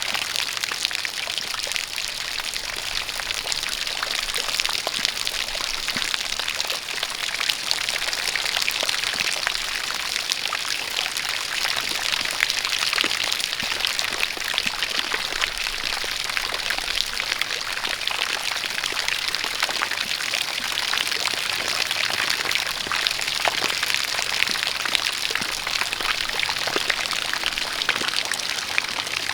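Steady rain with dense, fine drop patter, mixed with a stream of water pouring and splashing.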